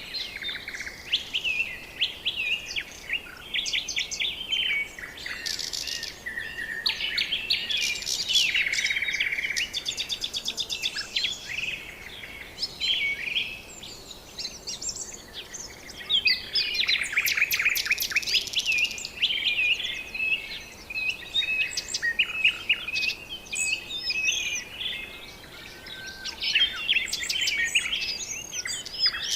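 Many birds calling at once: a dense chorus of chirps, whistles and trills overlapping without a break, with a buzzy call and a fast trill about a third of the way in.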